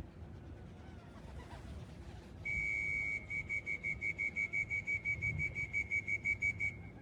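A high-pitched whistle held steady for about a second, then sounded in quick even pulses, about five a second, for some four seconds.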